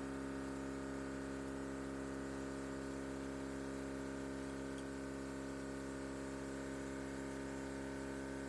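Steady machine hum with a fixed pitch and several overtones, unchanging throughout.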